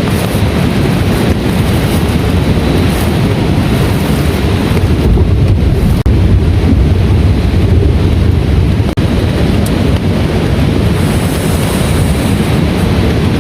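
Heavy rainstorm: a loud, steady roar of downpour and wind, deepest in the low end, broken by two very short dropouts about six and nine seconds in.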